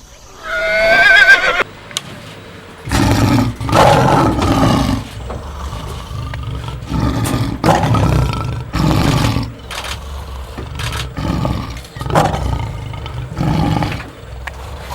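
A short, wavering horse whinny in the first second and a half. Then a large animal gives a series of deep, rough calls, each half a second to a second long, with irregular pauses between them.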